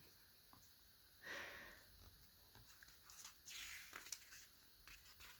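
Near silence: room tone with a couple of faint, soft rustles and a few tiny ticks.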